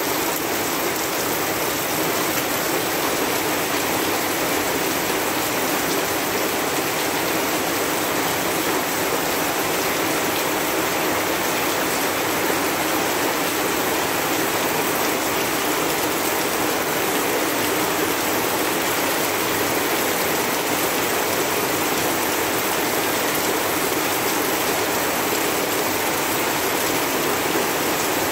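Heavy rain falling steadily, an even unbroken downpour with no thunder.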